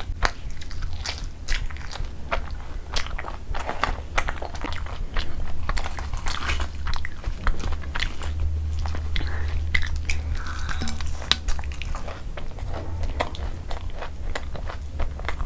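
Close-miked chewing and biting of saucy chicken and egg curry, with many short wet mouth clicks and smacks, over a steady low hum.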